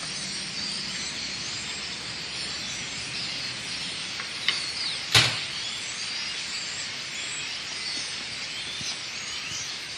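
A huge flock of blackbirds calling all at once: a dense, steady din of many overlapping chirps. A sharp knock stands out about five seconds in, with a fainter click just before it.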